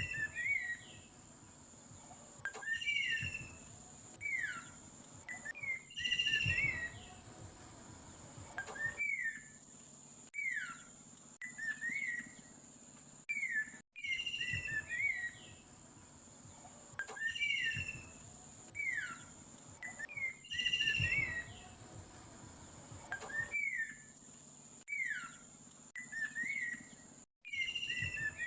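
Bird song: clusters of short chirps sliding down in pitch, over a steady thin high tone. The same stretch of recording plays about every 14 seconds, so it is a looped track.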